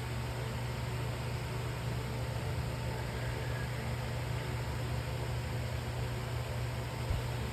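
A steady low hum with an even hiss over it, unchanging throughout, like a fan or appliance running.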